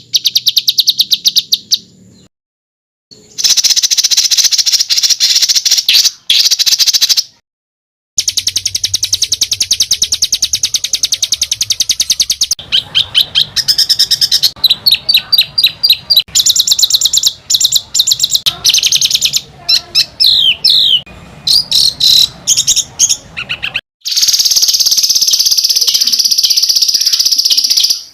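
Songbird song made of harsh, tightly packed rapid rolls and fast repeated 'shot' notes. It comes in spells broken by sudden short silences, with a few falling whistled sweeps, and ends in a continuous harsh buzzing trill.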